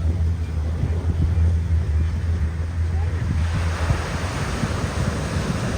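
Ocean surf washing on the beach, with wind buffeting the microphone in a heavy low rumble. About three and a half seconds in, the rumble drops away and the hiss of the surf comes up.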